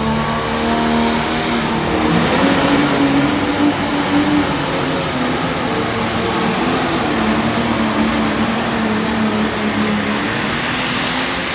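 Light Pro Stock pulling tractor's turbocharged diesel engine running flat out under load during a pull, its pitch wavering. A thin turbo whine rises steeply over the first two or three seconds and then holds high.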